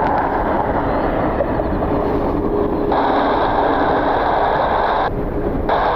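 Wind rumbling on the microphone under the steady whine of a CRJ regional jet's engines. About three seconds in, a hiss switches on abruptly, cuts out for about half a second near five seconds, then returns.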